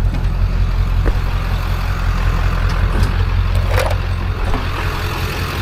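A vehicle's engine running with a steady low rumble, with a few light knocks and a short squeak about four seconds in.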